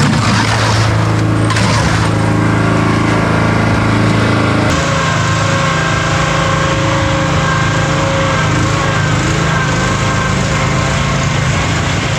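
A small petrol engine running steadily, with scraping noise over it in the first two seconds; the engine note shifts about five seconds in and then holds steady.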